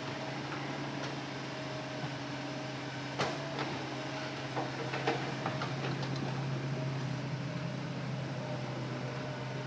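Hitachi Zaxis excavator's diesel engine running steadily as a low hum, with a few light knocks and clicks around the middle.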